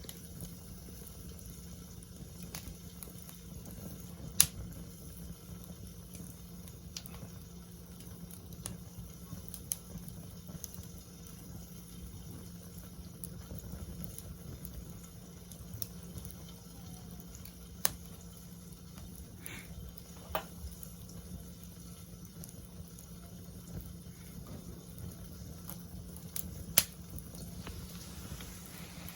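Wood fire crackling in a steel fire pit, a steady hiss with scattered small ticks and a few sharp pops, the loudest about four seconds in and again near the end.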